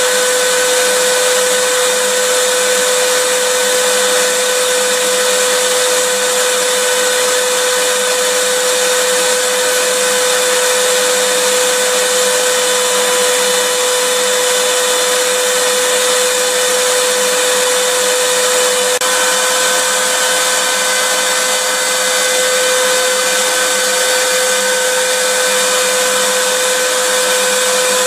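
Vacuum cleaner motor running steadily: a constant rushing noise with a steady whine, and a slight shift in the whine about two-thirds of the way through.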